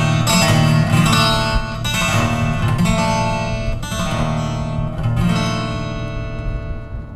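Acoustic guitar strumming the closing chords of a song, the last chord ringing out and fading away near the end.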